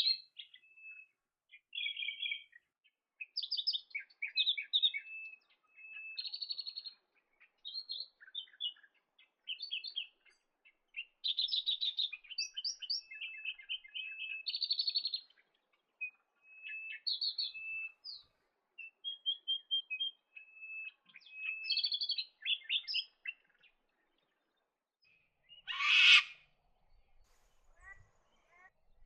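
Sharp-tailed sandpipers calling: a long run of short, high chirps and twittering trills with small gaps between them. About 26 s in comes a single louder, harsher call.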